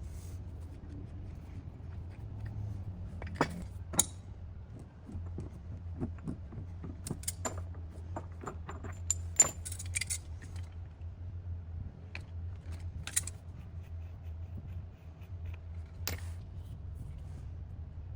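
Small metal objects jingling and clicking at irregular moments, the sharpest click about nine seconds in, over a steady low hum.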